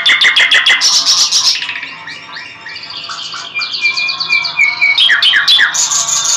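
Nightingale singing: bursts of rapidly repeated notes and trills, loudest at the start and again near the end, with a short run of clear whistled notes in between.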